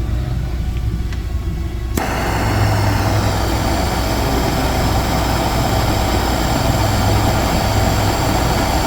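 A plastic-welding hot-air welder's air supply hums steadily, then about two seconds in a loud steady rush of air starts suddenly and keeps going, as the welder is set to melt and tack the plastic.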